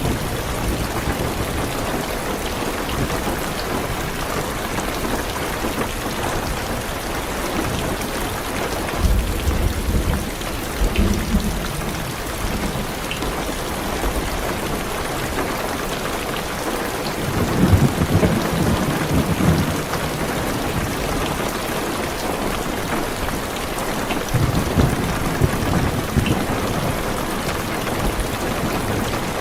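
Heavy rain beating steadily on a car's roof and windows, with low rolls of thunder about nine seconds in, again around eighteen seconds, and near the end.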